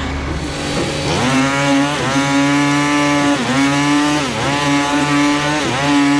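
Small petrol engine revving up about a second in, then running at high revs with its pitch dipping briefly three times.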